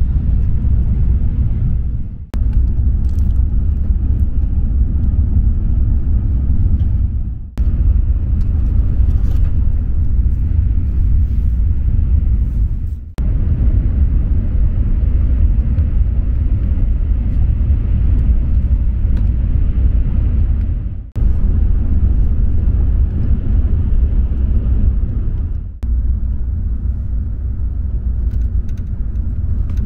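Steady low rumble of a Shinkansen bullet train running at speed, heard from inside the passenger car. It is broken by brief dips several times.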